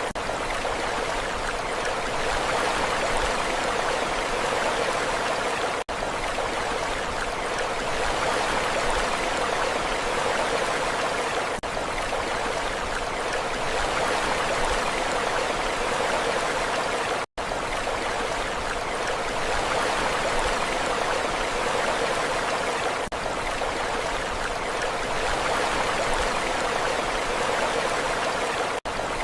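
Steady rushing water with no rise and fall of waves, broken by brief cuts about every six seconds where the recording loops, the one just past the middle a moment of full silence.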